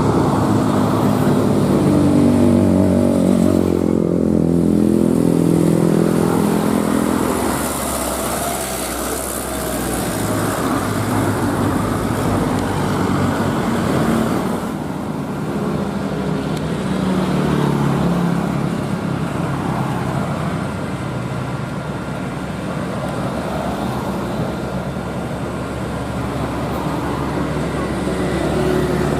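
Heavy truck diesel engines pulling up a steep grade, the engine note rising over the first several seconds and again later as trucks labour past. A hiss comes about eight seconds in.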